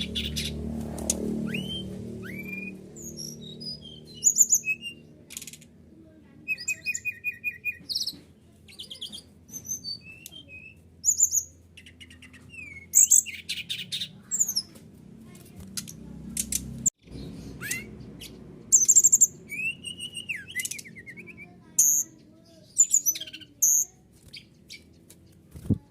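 Brown-chested jungle flycatcher (SRDC) song: a busy run of short chirps, quick trills, rising and falling whistles and rattling notes with brief pauses, the kind of lure recording played to make a kept bird answer.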